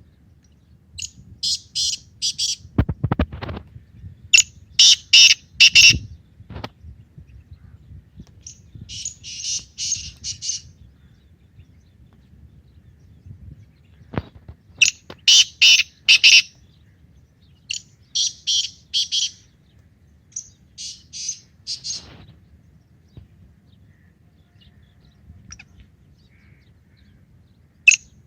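Black francolin calling: about six short phrases of three to five quick, harsh, high notes, a few seconds apart. A few dull thumps come between the phrases.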